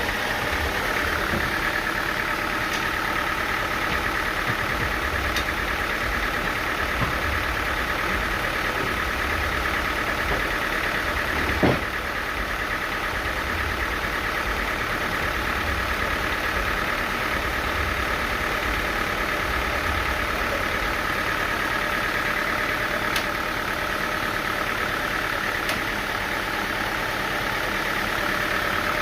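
Engine-driven sawmill machinery running steadily, a constant drone with a steady whine. One sharp knock comes about twelve seconds in.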